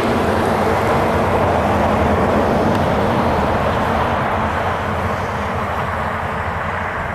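Jet airliner engine roar as the aircraft passes, slowly fading and growing duller as it moves away.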